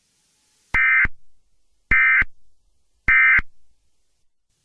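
Three short bursts of Emergency Alert System SAME digital data tones, a buzzy warbling squawk repeated about a second apart: the end-of-message code that closes an EAS alert.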